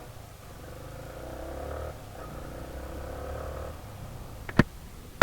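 Steady low engine and traffic rumble with a faint pitched drone in the middle, then two sharp knocks near the end.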